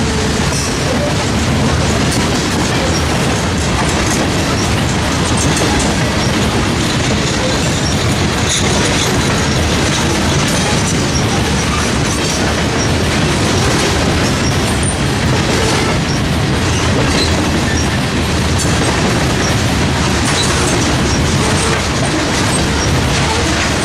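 Freight train rolling past at close range: steady, loud noise of steel wheels on rail as the cars go by.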